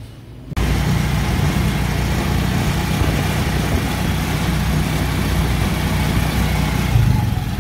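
Motorcycle engine of a tricycle (motorcycle with sidecar) running steadily, heard from inside the sidecar cab. It starts abruptly about half a second in.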